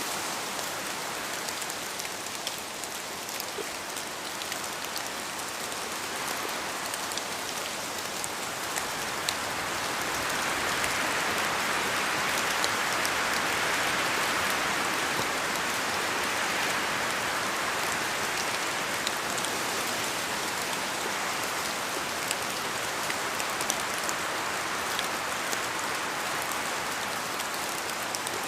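Steady rain falling, with many separate drops ticking through the hiss. It swells louder about a third of the way in and eases a little after the middle.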